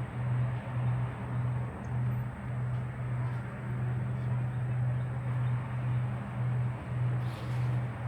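A motor running steadily: a low hum that pulses slightly about every two-thirds of a second, over a steady rushing noise.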